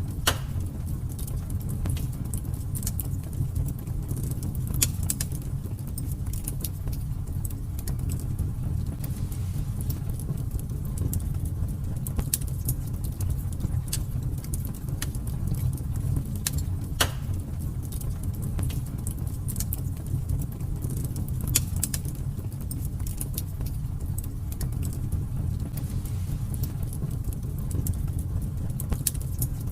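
Fire in a fireplace crackling, with irregular sharp pops over a steady low rumble; the loudest pops come about 5, 17 and 21 seconds in.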